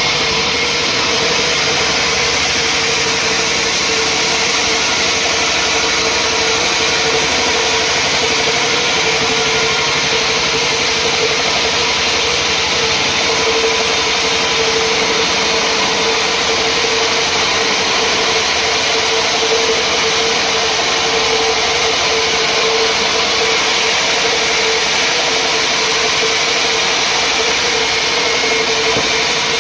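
Sawmill saw running steadily, a constant machine noise with a steady whine that holds the same pitch throughout.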